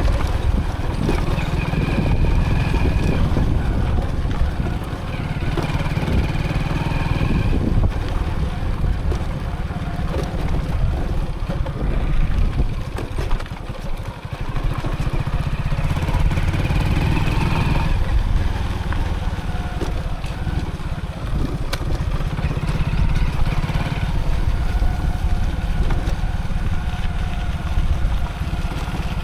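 Motorcycle running while being ridden, picked up on the rider's own camera, with a heavy low rumble throughout. A higher steady tone rises out of it and fades several times.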